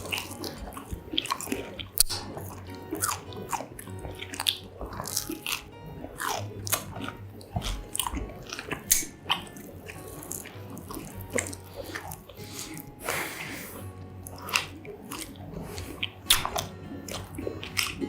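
Close-miked eating of fried mozzarella corn dogs: crunchy bites into the crisp battered crust and wet chewing, in irregular crackly bursts.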